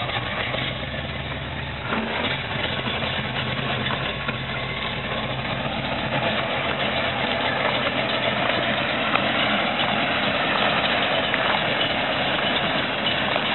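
Early-1970s Chevrolet Nova's engine running at low revs as the car creeps slowly forward, steady at first and a little louder from about halfway through.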